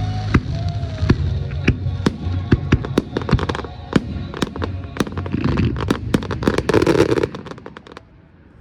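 Fireworks display: a rapid string of bangs and crackles, thickest in two bursts in the second half, then dying away near the end, with music playing underneath.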